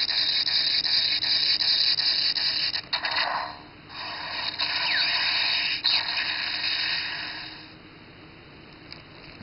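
Electronic sound effects played through the small speaker of an Engine Blade toy sword, a harsh, noisy sound with a crackling pulse. It breaks off briefly about three seconds in, starts again, and fades down near the end.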